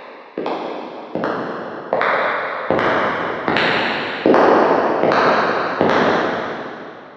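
Footsteps walking at a steady pace, about one step every 0.8 seconds, each step with a long echoing tail. The steps grow louder one after another, and the last, about six seconds in, dies away.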